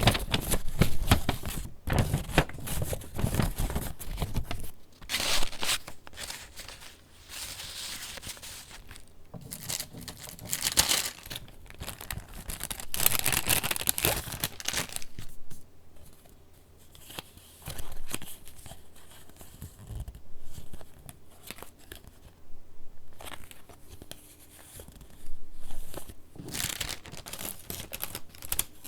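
Paper pages of a handmade junk journal being handled and turned, rustling and crinkling in irregular bursts with quieter stretches in between.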